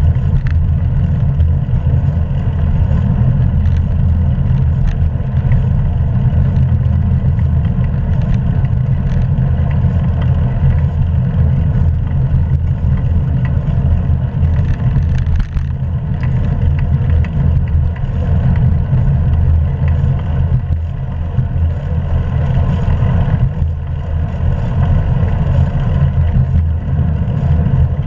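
Steady low rumble of wind buffeting a GoPro action camera's microphone on a moving bicycle, mixed with the hiss of tyres on the road and small clicks and rattles from the bike.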